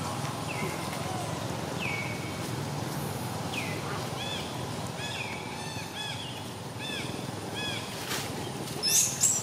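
A bird calling repeatedly with short, falling chirps, spaced out at first and then in a quicker run in the second half, over steady outdoor background noise. A brief sharp noise comes near the end.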